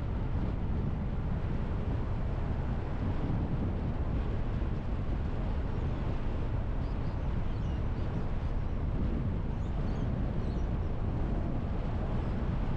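Car driving along a road: a steady low rumble of tyre and wind noise, with a few faint high chirps around the middle.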